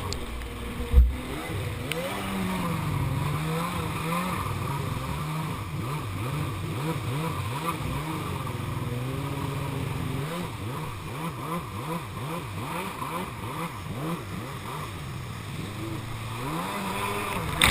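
Jet ski engine running through river rapids, its pitch rising and falling over and over as the revs change. A short thump about a second in.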